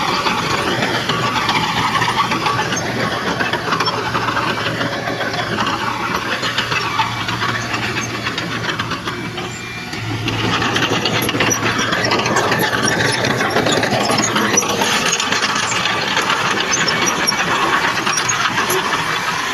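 Crawler bulldozer working: its diesel engine runs steadily under a dense clatter of steel tracks, with high metallic squeals. The engine dips briefly about halfway through, then picks up again.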